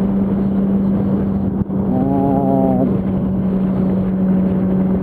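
Yamaha R1's inline-four engine running at a steady pitch while riding, with wind and road noise. A short held, steady-pitched tone sounds about two seconds in.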